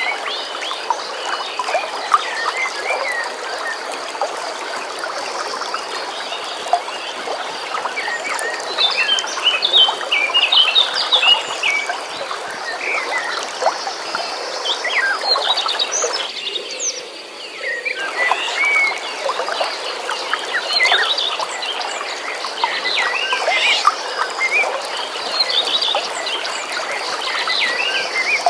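A chorus of birds chirping busily over the steady rush of flowing water, with a thin steady high tone running underneath. About halfway through, the water noise briefly drops out for a second or two.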